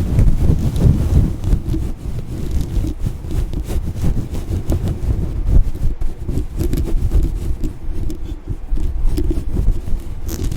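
A microphone being brushed and scratched hard and fast, close on the mic: a dense, loud, irregular rubbing and scraping noise.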